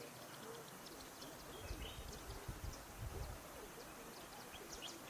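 Faint birdsong outdoors: many short, high chirps from several birds, with a low rumble about two seconds in and again around three seconds.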